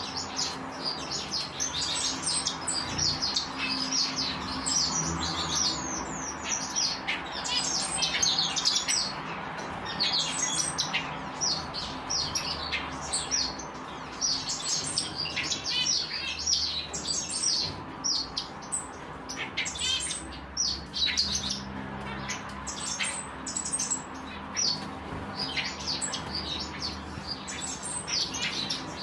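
A group of African silverbills chirping and twittering continuously: many short, high-pitched calls overlapping one another, over a faint steady hum.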